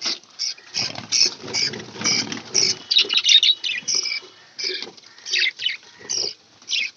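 Budgerigars chirping and chattering in a breeding colony, a quick run of short high squeaky calls, several a second, with a scratchy rustle of birds moving about during the first few seconds.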